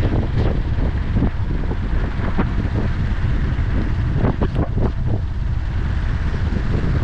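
Wind buffeting the microphone while riding an electric skateboard, over a steady low rumble, with several short knocks scattered through and a cluster of them about four to five seconds in.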